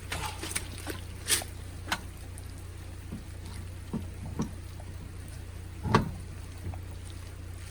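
Scattered knocks and clunks from work on a car's wheels and tyres, loudest a little after one second and again about six seconds in, over a steady low hum.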